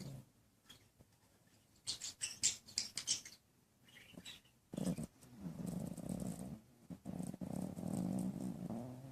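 Small dog snoring in its sleep: two long snores, each about two seconds, in the second half. Before them, about two seconds in, comes a quick run of sharp high clicks.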